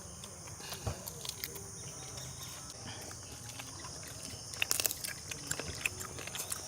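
Insects buzzing steadily in the background, with scattered clicks and crunches of people eating fried chicken legs by hand. A louder cluster of crunching clicks comes about four and a half seconds in.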